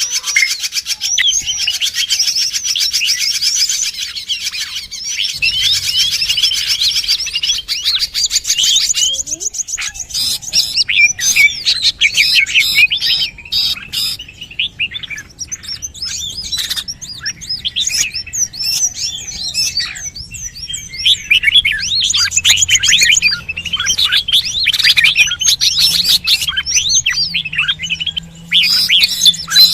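A dense chorus of small birds chirping and twittering at once, many quick overlapping high calls with no pause, as used in a bird-luring (pikat) recording to draw wild birds in. A faint low hum sits beneath from a few seconds in.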